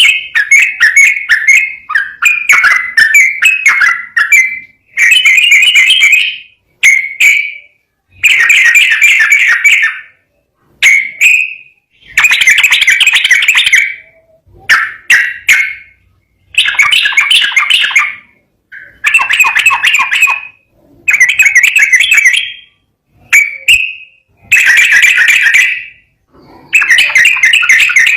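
Trucukan (yellow-vented bulbul) singing loudly in a rapid, chattering 'ropel' song. Its phrases of one to two seconds repeat about a dozen times, with short pauses between them.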